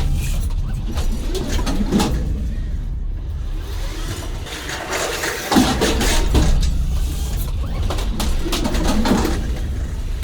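An engine running low and steady, with scattered knocks, clunks and short squeaks on top.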